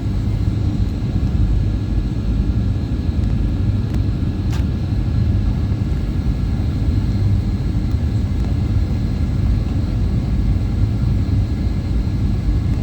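Steady low rumble of a Boeing 737-800's CFM56-7B jet engines and airflow, heard from inside the cabin, with a faint click about four and a half seconds in.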